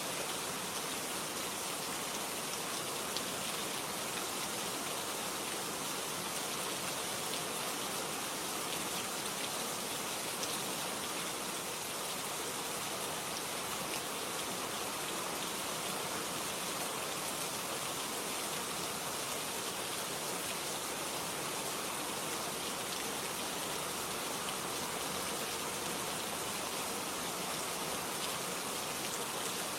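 Steady rain falling, an even hiss of many drops with no distinct events.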